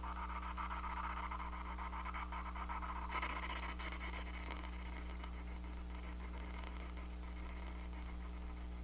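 Steady low electrical hum with a faint, wavering hiss over it.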